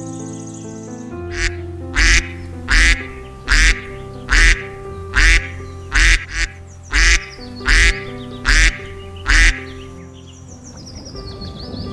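A duck quacking about ten times at an even pace, a little more than once a second, starting about two seconds in and stopping near the end, over steady background music.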